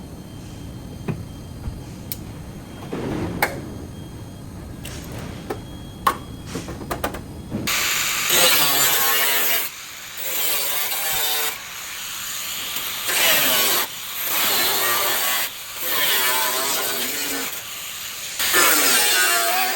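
A power tool working car-body metal in repeated bursts of one to two seconds with short breaks, starting about eight seconds in; before that, scattered light taps and clicks over a low hum.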